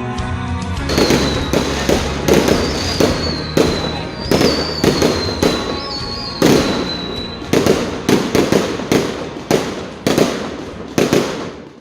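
Fireworks exploding in a rapid, irregular run of sharp bangs. A high, wavering whistle runs beneath the bangs from about a second in until past the middle. Music plays for the first second, before the bangs begin.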